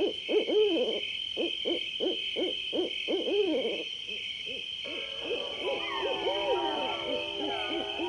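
A quick series of short hooting calls, each rising and falling in pitch, two or three a second. About halfway through they give way to overlapping gliding and held tones, over a steady high-pitched hum.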